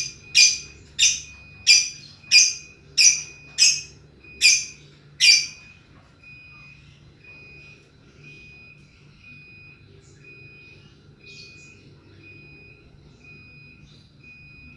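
A lovebird's shrill ngekek: a rapid run of loud, evenly spaced squawks, about one and a half a second, stopping about five seconds in. A faint, regular electronic-sounding beep then repeats steadily.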